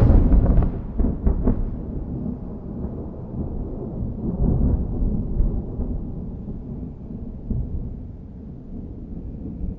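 Thunder: loud at the start, with sharp crackles through the first second and a half, then a long low rolling rumble that swells again about four to five seconds in and slowly eases off.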